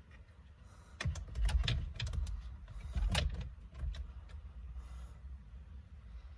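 Scattered light clicks and knocks of plastic steering-wheel parts and clips being handled and pressed into place, over low handling rumble.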